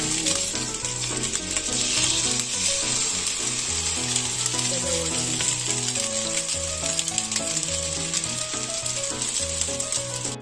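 Sardine-and-egg omelette patties sizzling and crackling steadily in hot cooking oil in a frying pan, with music playing underneath.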